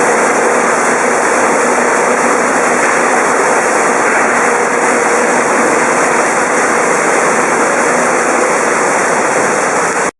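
Hosoda Kogyo Raccoon 4B vegetable washer running while washing shredded cabbage: a loud, steady rush of machine and churning water noise with a faint steady hum. It stops abruptly near the end.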